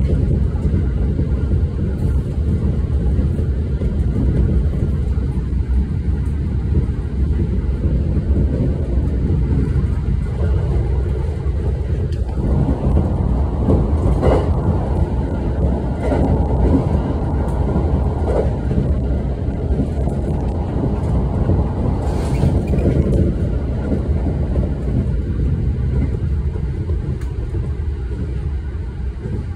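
Moving train heard from inside the passenger car: a steady low rumble of wheels on the rails and running gear. It grows louder and fuller for several seconds in the middle, with a few short clicks.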